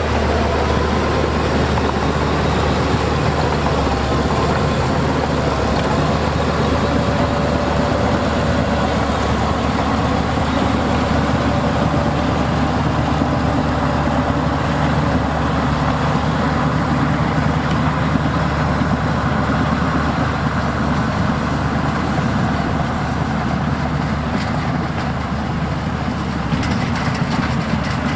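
Heavy diesel earthmoving machinery running steadily at work, a bulldozer or dump truck engine with a constant low drone.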